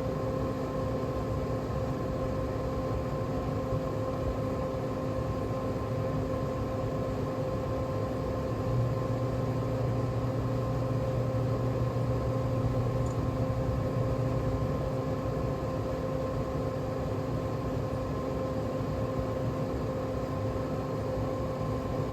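Traeger Scout pellet grill running with a steady motor hum from its combustion fan. A deeper hum cuts in about nine seconds in and stops some six seconds later, the grill's motor cycling on and off as the controller holds its temperature.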